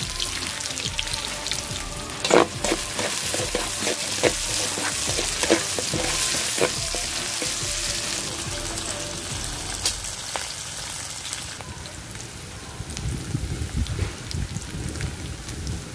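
Garlic, onion and ginger sizzling as they sauté in hot cooking oil in a pan, cooking toward brown. A spatula knocks and scrapes against the pan several times in the first half.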